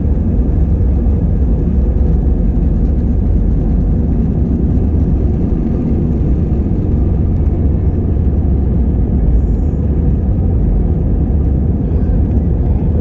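Steady low rumble of jet engines and airflow inside the cabin of an Airbus A320 in flight, unchanging throughout.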